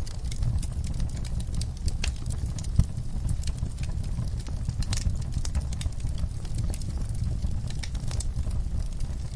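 Wood fire burning in a fireplace: a steady low rumble of flames with frequent irregular crackles and pops, one sharper pop about three seconds in.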